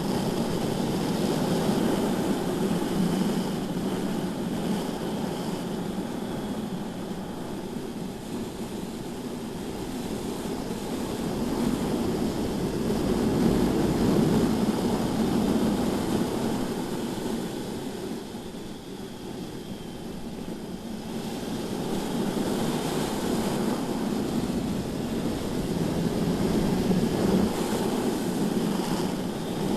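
Onboard sound of a BMW S1000RR inline-four sport bike lapping a track: a steady rush of wind over the microphone with the engine underneath. It swells and eases as speed rises and falls, dipping for a few seconds past the middle before building again.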